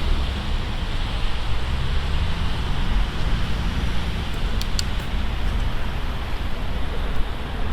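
Steady wind rush over the microphone while cycling, with road traffic going by and a low engine note rising and falling a couple of seconds in.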